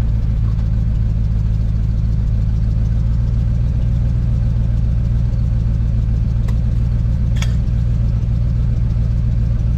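A vehicle engine idling steadily, an even low hum that does not change in pitch, with two light clicks near the end.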